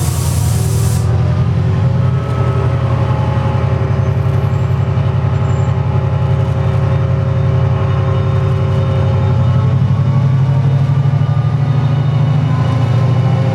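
Diesel locomotive engine running steadily with a deep, fast pulsing throb, and a burst of air hissing in the first second.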